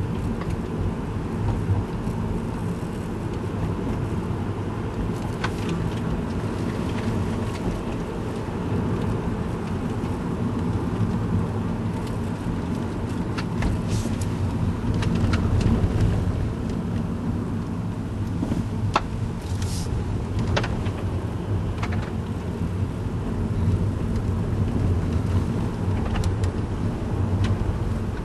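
Car driving slowly, heard from inside the cabin: a steady low engine and road rumble, with a scattering of faint sharp clicks and cracks.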